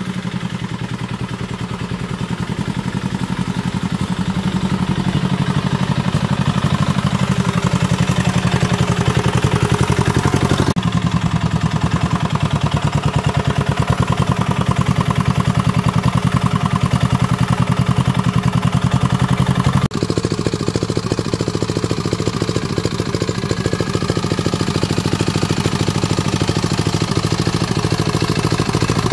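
Restored diesel engine running steadily with an even, rapid firing rhythm, picking up a little over the first few seconds.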